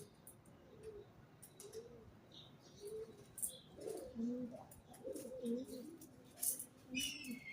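Pigeons cooing: low, wavering coos repeating about once a second, more of them and louder in the middle. A few short, high chirps from smaller birds and light clicks come in between.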